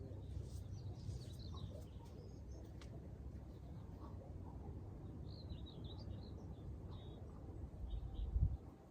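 Small birds chirping in short, high calls, scattered through the middle and later part, over a steady low rumble, with a louder low bump shortly before the end.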